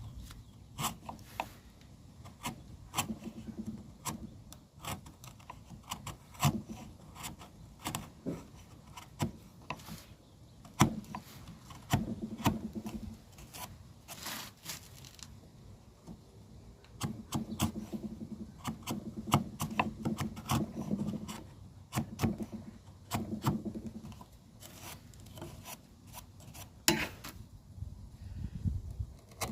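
Hand woodworking on timber: irregular sharp knocks and taps of wood on wood and tools, with stretches of scraping and rasping.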